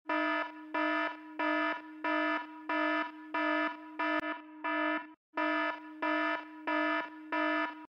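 Electronic alarm beeping: a single pitched tone pulsing on and off about one and a half times a second, with a brief break about five seconds in.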